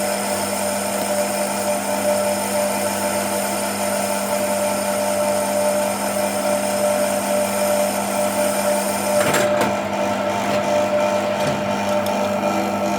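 A shop machine's electric motor running at a steady speed, with a constant hum. There is a brief knock about nine seconds in.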